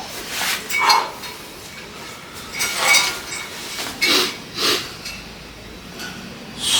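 Metal gym weights clinking and knocking several times at uneven intervals, some strikes with a short ringing tone.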